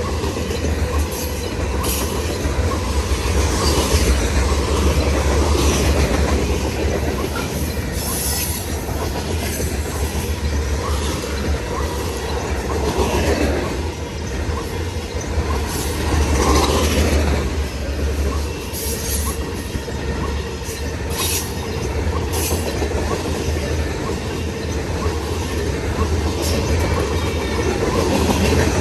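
Freight cars of a long CN grain and intermodal train rolling past at close range: a steady heavy rumble of wheels on rail, with brief high-pitched screeches here and there.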